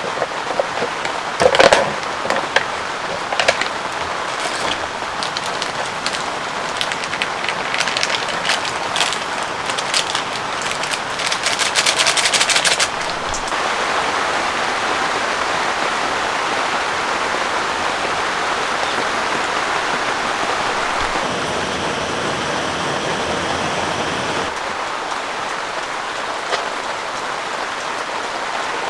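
Heavy rain falling, with loud separate drops striking close by and a quick dense patter for about the first thirteen seconds, then settling into a steady, even downpour that eases slightly near the end.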